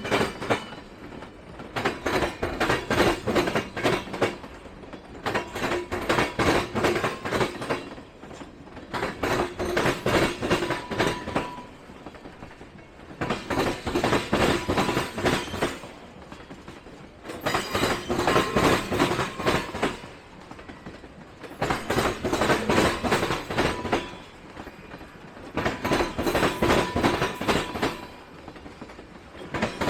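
Train cars rolling past, their wheels clacking over the rail joints in a group of rapid clacks about every four seconds as each pair of trucks goes by, quieter between groups.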